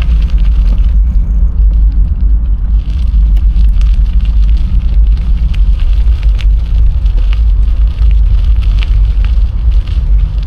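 Wind buffeting the microphone of a camera riding along on a moving bicycle, a steady heavy rumble, with scattered crackles and ticks throughout.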